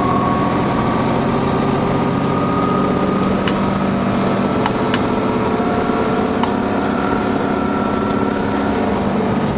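Nova Bus TL-40102A low-floor city bus running, a steady engine drone with a faint whine above it and a few light ticks about halfway through.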